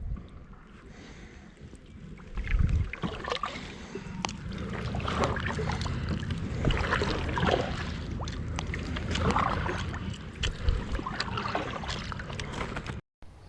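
Water splashing and lapping against a kayak hull, with many small knocks and splashes over a steady low wind rumble on the microphone.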